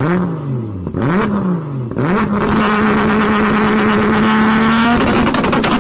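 Toyota Supra's engine revved through its exhaust: the pitch drops, climbs and falls once, then climbs again and is held steady at high revs for about three seconds. The throttle is released about five seconds in and the exhaust crackles and pops.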